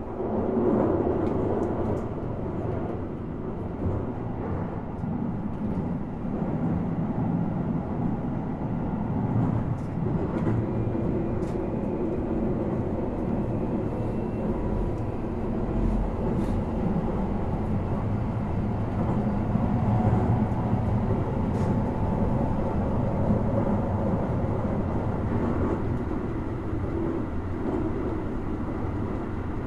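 Toei 5500 series train running between stations, a steady rumble of wheels and motors heard from inside the passenger car.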